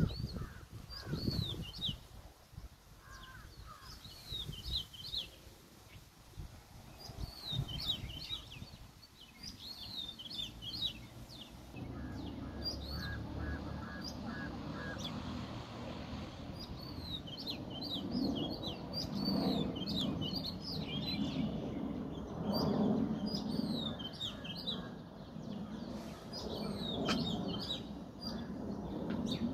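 Small birds chirping over and over, short high calls that fall in pitch, in a steady stream. About halfway through, a low steady background noise comes in under them.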